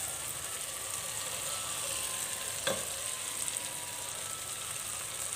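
Onion-tomato masala sizzling steadily in hot oil in a cooking pot as fried okra pieces are tipped in from a plate with a spatula. A single sharp clack comes about halfway through.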